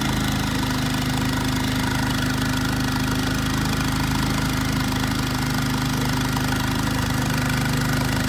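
Rialta RV generator engine running steadily with no load on it, an even mechanical hum.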